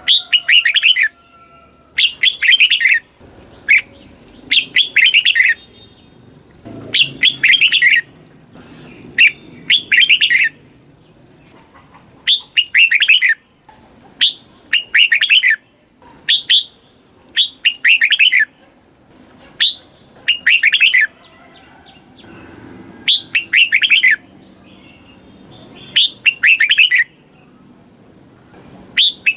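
Red-whiskered bulbul singing: a steady run of short, bright phrases of quick warbled notes, one roughly every two seconds, with brief pauses between them.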